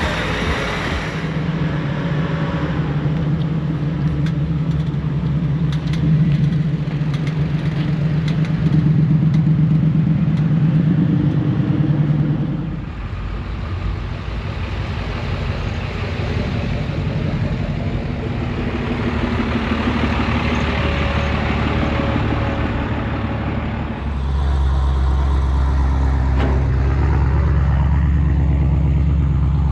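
Truck engines running at a show, heard in a run of separate clips: a steady, pulsing engine drone, a change to a lighter mix after about twelve seconds, and a deeper, louder rumble from about 24 seconds in.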